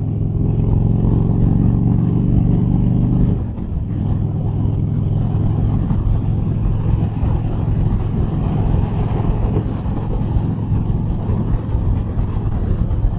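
Harley-Davidson Fat Boy Lo V-twin engine pulling hard at highway speed with a steady rush of wind and road noise. About three and a half seconds in the engine note drops off as the throttle eases, leaving mostly wind noise with the engine running lower underneath.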